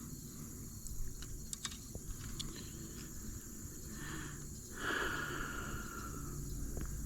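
Insects droning steadily in a high register, with a few light clicks and a short rush of noise about five seconds in.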